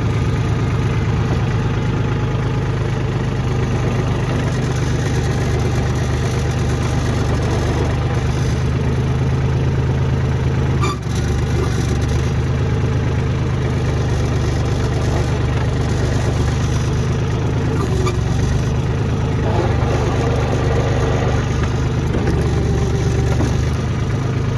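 Compact diesel tractor engine running steadily at a constant speed, with a brief drop about eleven seconds in.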